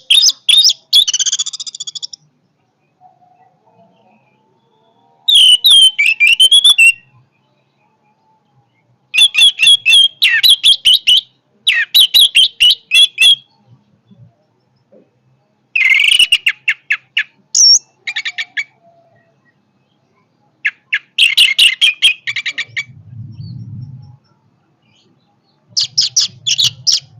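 Orange-headed thrush singing in powerful bursts: phrases of rapid, high, varied notes, each lasting a second or two, repeated about every four to five seconds with short pauses between.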